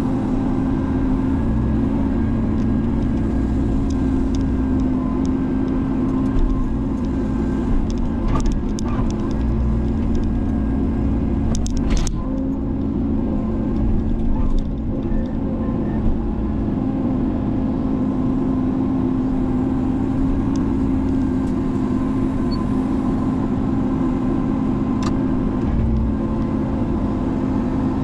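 Diesel engine of a Menzi Muck spider excavator running steadily while it works, with a few sharp knocks about a third of the way in.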